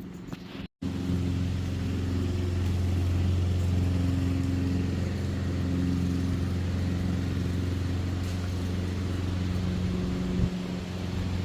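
Steady low hum of a running vehicle, starting abruptly about a second in after a brief silence and easing a little near the end.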